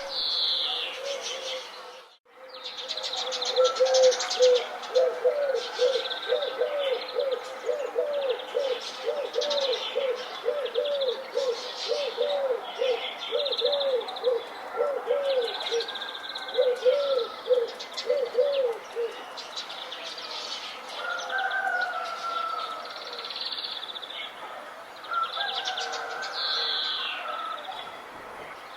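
Several birds singing: high chirps and trills throughout, with a low, cooing note repeated about twice a second from about four seconds in until about halfway through. The sound drops out briefly about two seconds in.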